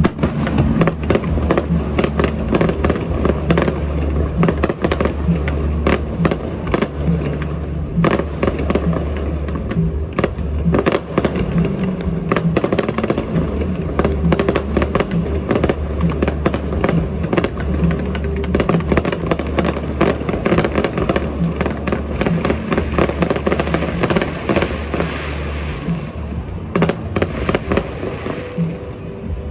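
Fireworks display: a dense run of bangs and crackles that thins out near the end, over music with a steady bass.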